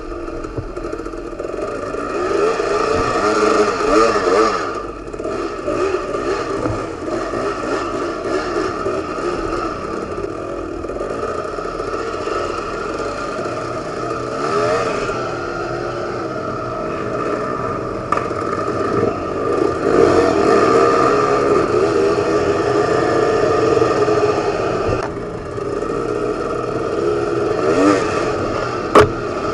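Enduro dirt bike engine revving, its pitch rising and falling again and again with the throttle. There is one sharp knock near the end.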